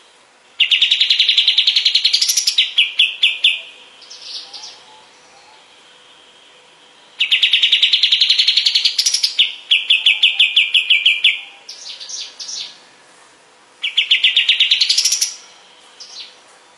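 Kapas tembak singing three song phrases, each a fast trill that rises in pitch, breaks into a short run of separate notes, and ends with a few higher notes.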